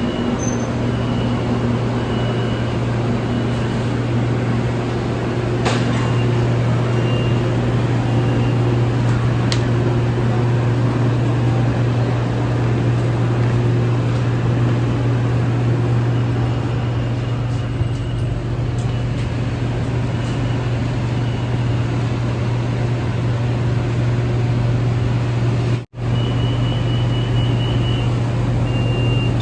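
Steady low hum and running noise inside a BTS Skytrain EMU-B1 carriage, with faint high tones coming and going. The sound drops out for an instant near the end.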